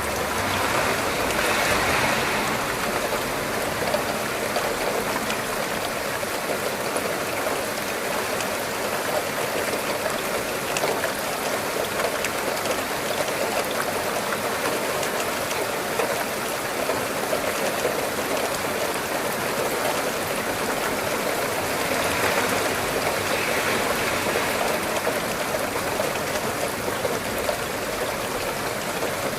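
Steady rain falling: a continuous even hiss of water speckled with fine drop ticks, swelling slightly a couple of seconds in and again a little past twenty seconds.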